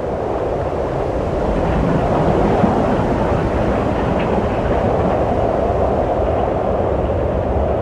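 Wind blowing, a continuous rushing noise with a low rumble that swells slightly about two seconds in.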